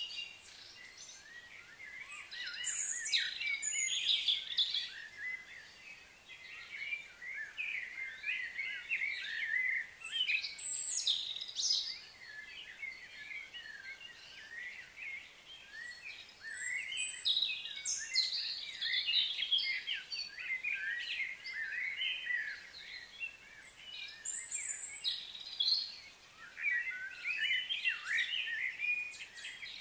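Songbirds chirping and singing in high, busy bursts of a few seconds, with quieter gaps between them.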